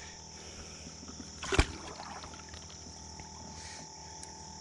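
Steady high-pitched insect chirring, with one short thump about a second and a half in.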